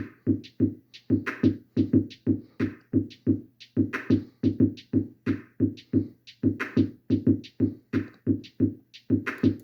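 A programmed hip hop drum loop playing back from beat-making software: an even, fast run of short drum hits, about three or four a second, with deep kicks that fall in pitch and crisp hits on top.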